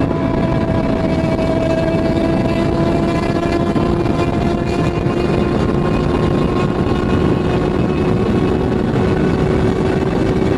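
Kawasaki ER-6n's parallel-twin engine running at a steady cruise, its pitch almost unchanging, under heavy wind rush on the microphone.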